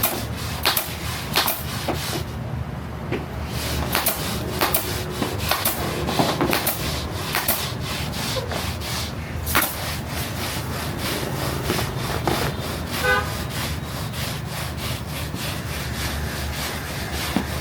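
Repeated rubbing, scraping strokes of hand work, irregular at about two or three a second, over a steady low hum. A brief pulsed beep sounds about thirteen seconds in.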